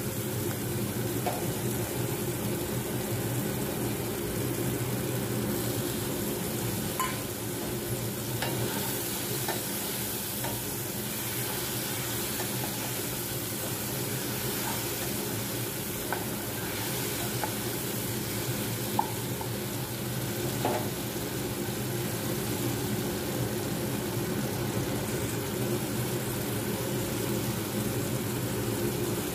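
Chopped onion, green bell pepper and tomato sizzling in oil in a nonstick pan while a metal spoon stirs them, with a few light taps of the spoon against the pan. A steady low hum runs underneath.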